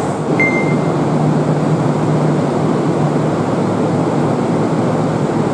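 Steady rumble and hum of a train station platform, with the Kintetsu 'Blue Symphony' limited express train standing at it. A short high beep sounds about half a second in.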